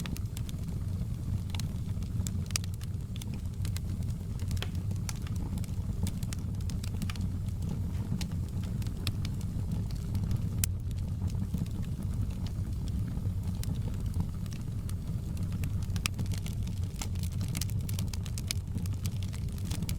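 Wood fire crackling, with frequent sharp, irregular pops and snaps over a steady low rumble of the burning fire.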